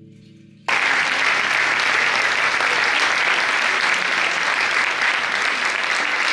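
A held musical chord fading out, then audience applause that starts abruptly under a second in and goes on steadily.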